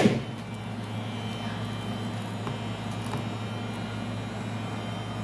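Heat gun blower running steadily with a constant hum, softening the adhesive under the iPad 2's glass; a sharp click right at the start.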